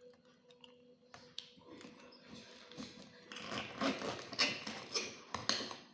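Close-up eating sounds: scattered small taps and clicks, turning into denser, louder clicky mouth noises a little past halfway.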